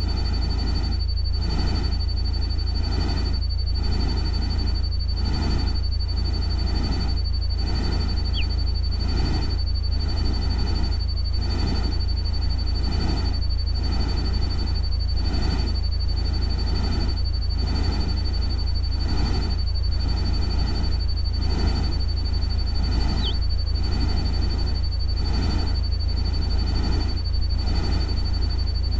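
Artificial nature-sound bed: a steady low rumble under a noisy wash that swells and fades about three times every two seconds, with a constant high whine like a synthetic cricket tone. Two brief chirps come through, one about eight seconds in and one near the end.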